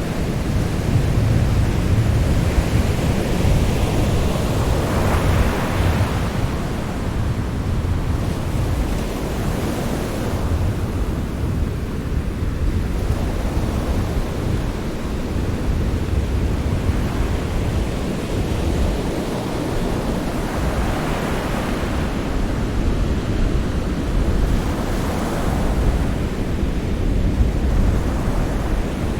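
Sea waves breaking and washing ashore under a constant low rumble, with a wave surging up about a quarter of the way in and again near the end.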